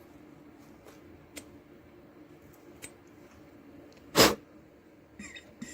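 A few light clicks of handling the boiler and its fittings, then a short, hard puff of air blown through a boiler fitting about four seconds in, followed by a brief hiss of air passing through, to check that the passage is clear.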